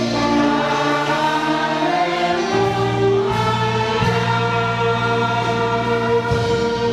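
A church orchestra playing a hymn, with held chords that change every second or so; a choir may be singing along.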